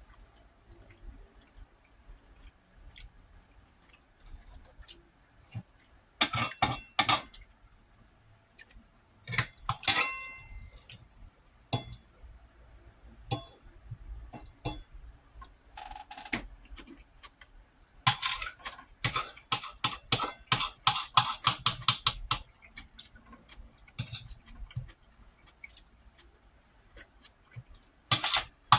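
Metal cutlery clinking and scraping against a dish while food is eaten, in several spells of quick clicks with quiet gaps between, one clink briefly ringing about ten seconds in.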